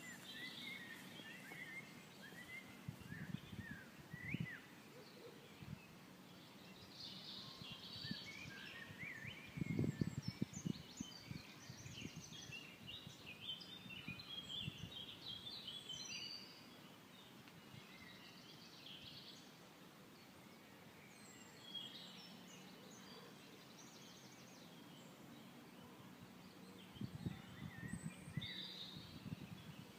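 Faint birdsong, many short chirps and calls, with a few dull low thumps: the loudest about ten seconds in and a cluster near the end.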